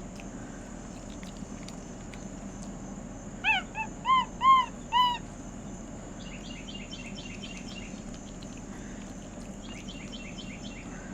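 An animal giving five short, high calls in quick succession, each rising and falling in pitch, a few seconds in. Later come faint runs of rapid high chirps.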